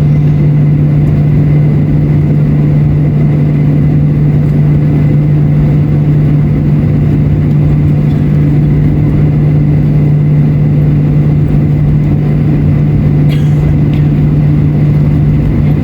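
Steady cabin noise inside a Boeing 737-800 taxiing after landing: the CFM56 engines at idle and the air-conditioning, with a strong, even hum. A brief click about 13 seconds in.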